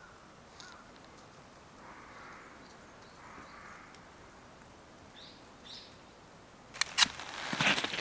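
Quiet open-air ambience with faint distant bird calls, twice in the first half. Near the end comes a sudden burst of sharp knocks and clatter.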